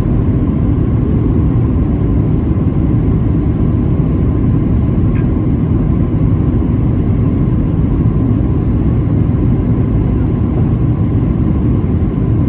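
Boeing 737-700 cabin noise from a window seat: a loud, steady rumble of the engines and airflow, with a faint steady whine above it.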